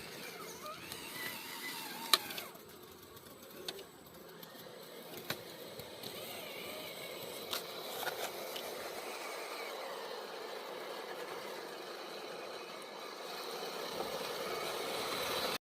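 Radio-controlled scale trucks driving over forest ground: a steady whirring hiss with scattered sharp clicks and snaps, growing a little louder over the second half and cutting off suddenly near the end.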